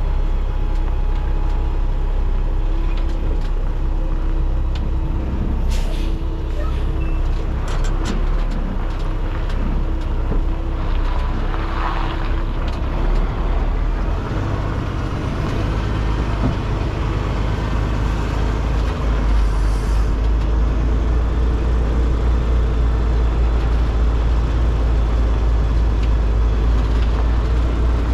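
Semi truck's diesel engine running at low revs while the rig backs in, with a few clicks and a short hiss partway through; the engine rumble gets heavier about two-thirds of the way in.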